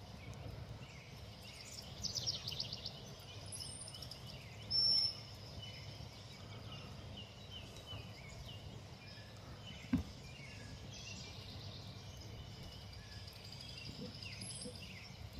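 Several songbirds calling and singing around feeders over a steady outdoor background. A loud rapid trill comes about two seconds in and a loud clear whistled note about five seconds in, with a single sharp click near the ten-second mark.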